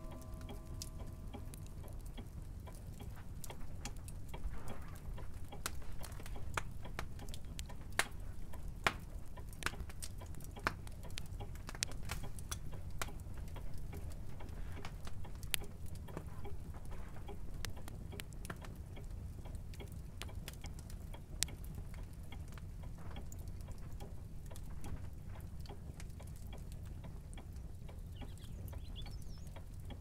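Clock ticking, with scattered sharper clicks and a steady low hum underneath.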